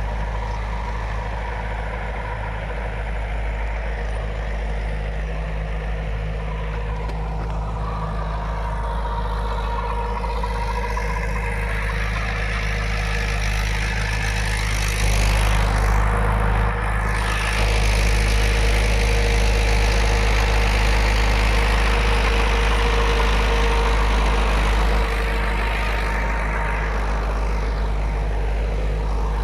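Mahindra 475 DI tractor's diesel engine running steadily while pulling a rotavator through the field. It grows louder about halfway through, stays loud for several seconds, then drops back.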